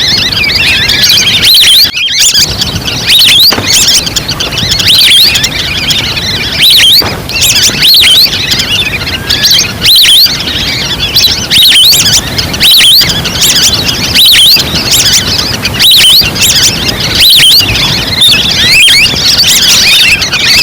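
Playback of a duck-lure recording: wild ducks calling with many overlapping high, rising whistles, coming in loud pulses about once a second.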